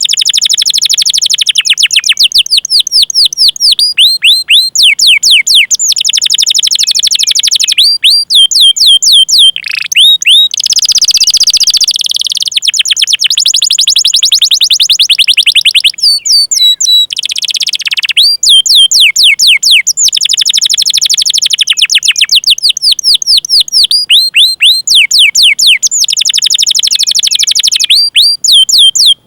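Canary singing: runs of sharp, falling 'cuit cuit' chirps alternate with fast rolling trills, loud and nearly unbroken.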